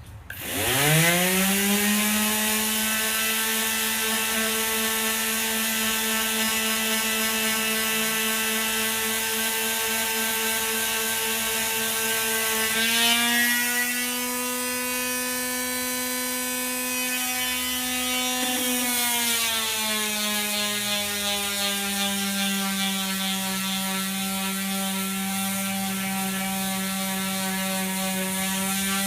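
A handheld electric power tool spins up and runs steadily, taking material off a foam dashboard panel. Its pitch rises about 13 seconds in and drops back about 19 seconds in as the load on it changes.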